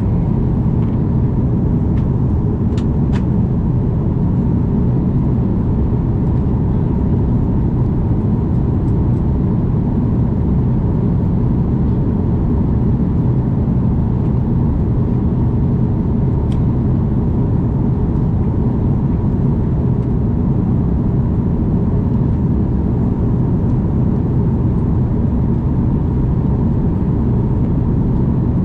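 Steady cabin noise inside an Airbus A330 airliner in flight: a constant low rush of engines and airflow, with a faint steady tone above it. A couple of faint clicks come about two to three seconds in.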